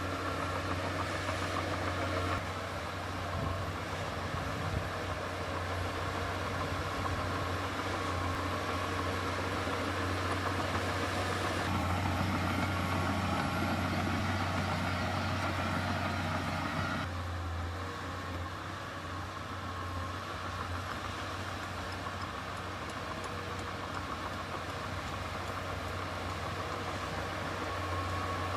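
Heavy diesel construction machinery running steadily, its engine note and load shifting a few times.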